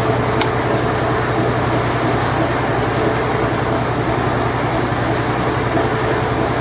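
Late-1980s Whirlpool Imperial Clean Touch washing machine running its spin cycle: a steady hum under an even whir, with one brief click about half a second in.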